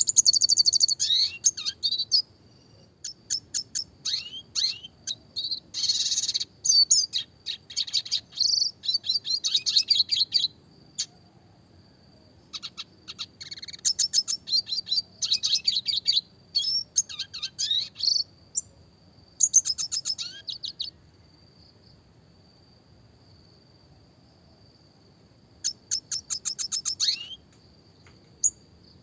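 Red siskin singing in bursts of rapid, high chirps and trills, phrases of one to several seconds broken by short pauses and a longer pause past the middle. A faint steady high tone carries on through the gaps.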